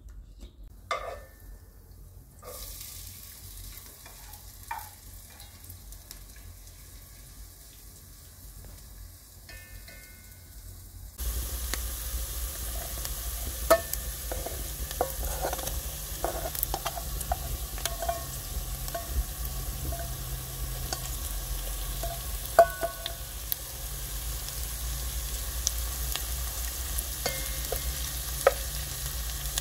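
Chopped onions frying in hot oil in a metal pot, with a steady sizzle that starts suddenly about a third of the way in. Before that there is a quieter stretch with a few clicks. Throughout, a spatula scrapes and taps against the pot as the food is stirred.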